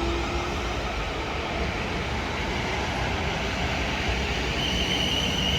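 Class 450 Desiro electric multiple unit pulling away from the platform: a steady rumble of electric traction and wheels on the rails, with a high steady whine coming in near the end.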